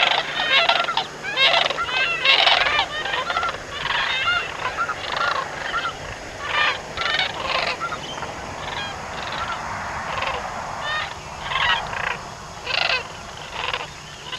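A large flock of geese honking, many calls overlapping. The calls are densest and loudest at first, then thin out and grow quieter.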